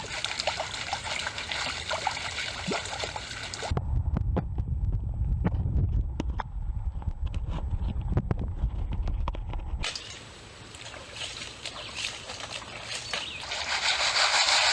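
River water sloshing and splashing while gravel is worked by hand in bedrock cracks. From about four seconds in to about ten seconds in, the sound turns to a muffled low rumble with scattered clicks of stones, then the splashing returns and grows louder near the end.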